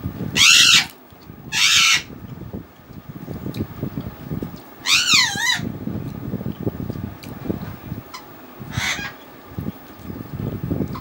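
A bird calls loudly four times: two short calls in the first two seconds, a longer call with a wavering pitch about five seconds in, and a fainter one near nine seconds. Under the calls run soft, close-up eating sounds of a hand mixing rice and fish.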